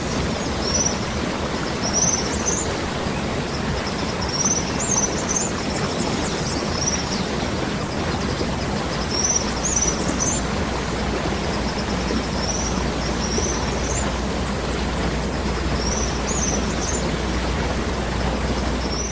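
Waterfall: a steady rush of falling water. Short high bird chirps come every second or two over it.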